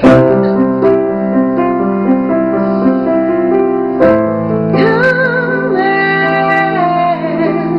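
Piano playing slow held chords, struck at the start and again about four seconds in. A woman starts singing about five seconds in, holding long notes over the piano.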